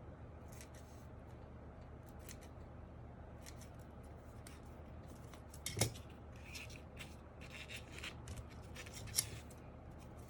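Scissors cutting a foam sheet in a run of short, uneven snips, with a single thump about six seconds in and a sharp click near the end.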